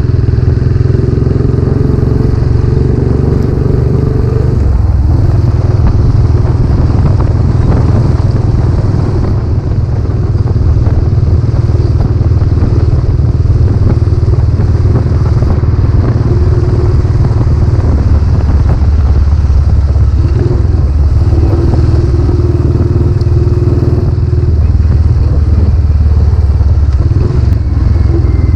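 Royal Enfield Classic 500's single-cylinder engine running steadily under way, heard through its newly fitted aftermarket silencer.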